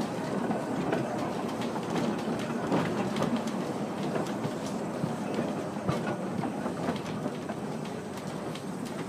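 Electric car HCRR 2894 running along the track, heard from aboard: a steady rumble of wheels on rail broken by scattered sharp clicks and knocks.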